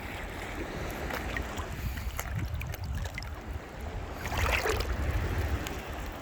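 Wind buffeting the microphone over the wash of sea surf, with a louder rush of water about four and a half seconds in.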